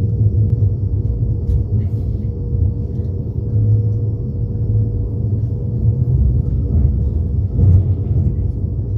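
Passenger train running, heard from inside the carriage: a steady low rumble with a faint constant hum and a few faint clicks.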